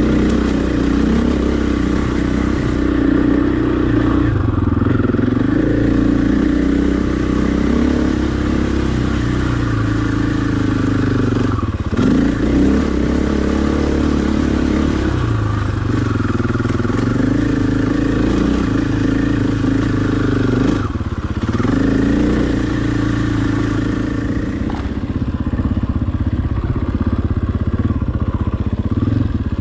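Husqvarna dirt bike engine running while being ridden, its note rising and falling with the throttle and dipping briefly twice.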